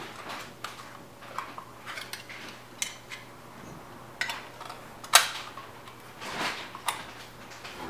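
Scattered light metallic clicks and knocks from hand work on a dishwasher's electrical box and its metal cover, with one sharp knock about five seconds in.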